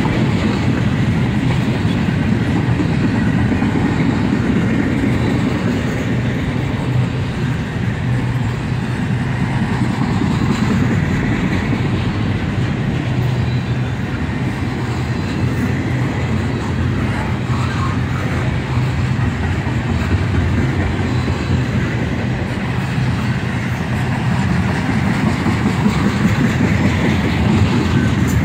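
CSX double-stack intermodal freight train's container well cars rolling past, a steady, continuous noise of steel wheels running on the rails.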